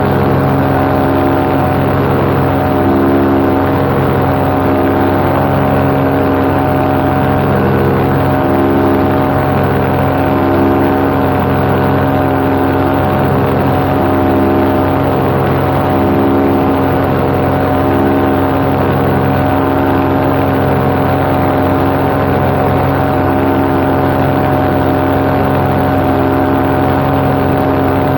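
Paramotor engine and propeller running steadily in cruise flight, with a slow regular swell in the tone about every two seconds.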